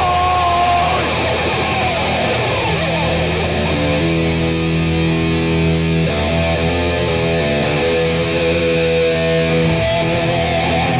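Distorted electric guitars playing live through amplifiers, letting held notes and chords ring and changing them every second or so, over a steady low bass drone, with no drums.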